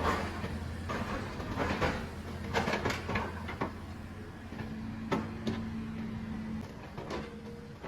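Tracked heavy machine at work: a steady low diesel engine hum under metallic clanks and knocks, a cluster of them between about two and four seconds in, with a short held tone in the middle.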